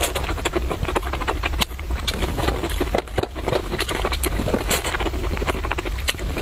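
Close-miked chewing of broccoli: rapid crunching and wet mouth clicks, over a steady low hum.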